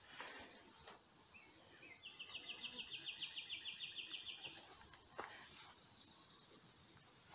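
A high, rapid insect trill of about ten even pulses a second, lasting about two and a half seconds, then a steady high insect drone; a few faint knocks come through.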